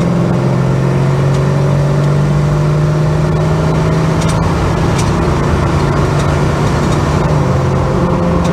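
Holden HK car's engine and road noise while driving, a steady engine note that rises gently over the first few seconds and changes about seven seconds in.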